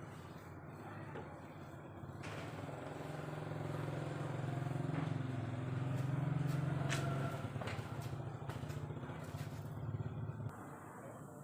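An engine running steadily with a low hum, growing louder over several seconds, then cutting off abruptly about ten seconds in.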